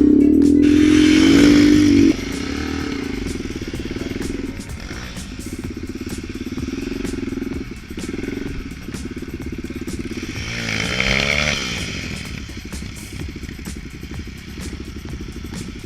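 Small off-road vehicle engine running, with a rev that rises and falls about eleven seconds in. A louder steady hum ends abruptly about two seconds in.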